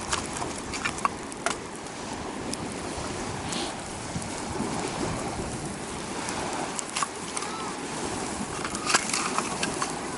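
Steady rushing noise of strong wind and rough lake waves, with scattered sharp crackles and clicks at irregular moments.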